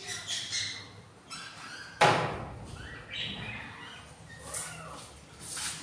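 Budgies chirping and chattering in short calls, with one sharp knock about two seconds in.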